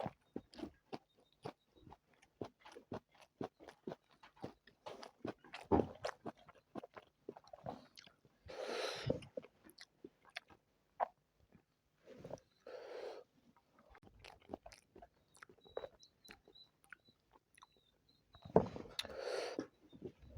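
Close-miked mouth sounds of a person chewing spicy chicken biryani and chicken legs: a steady run of wet, crunchy bites and chews, broken three times by a longer, louder rush of noise.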